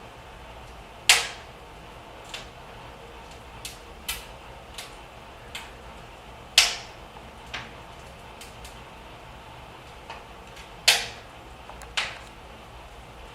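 Wood fire crackling in a cast-iron fireplace firebox: irregular sharp pops over a steady low background, three loud ones about a second, six and a half and eleven seconds in, with smaller crackles between.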